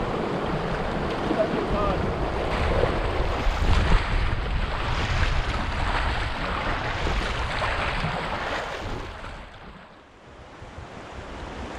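River water rushing around a kayak, with wind buffeting the microphone. It dies down sharply about nine seconds in, then builds again.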